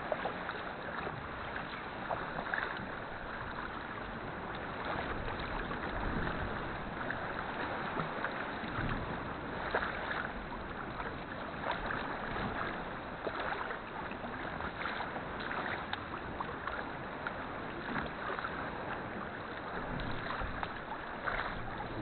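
Sea kayak being paddled: the paddle blades dip and splash, and water laps and trickles along the hull in a steady, uneven wash.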